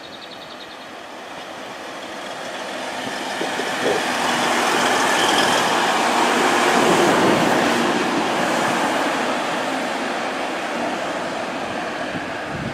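A train passing by on the track: a rushing rumble that builds, is loudest about halfway through, then slowly fades, with a few short knocks as it comes close.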